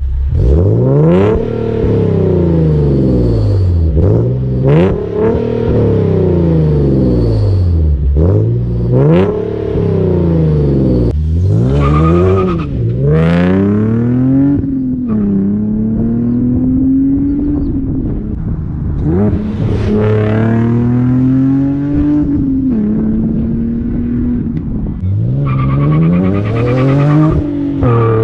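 Nissan 370Z's 3.7-litre V6 running through Invidia test pipes and a catback exhaust, revved hard again and again: the engine note climbs and falls repeatedly, with a few sudden drops in pitch and a longer, steadier climb about halfway through.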